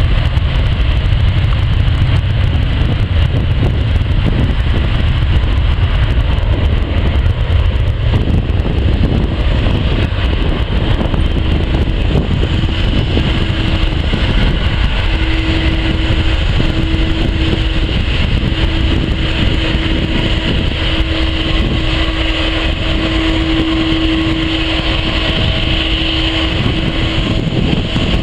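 Jet aircraft engines running with a steady, loud rumble; a hum comes in about eleven seconds in and grows stronger, along with a brighter high whine later on.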